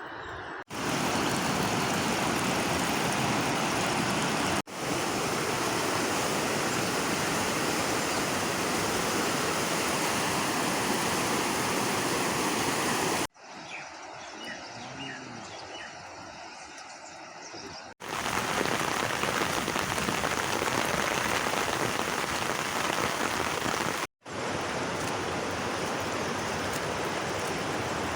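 Steady rushing water in several clips joined with abrupt cuts, with one quieter stretch in the middle.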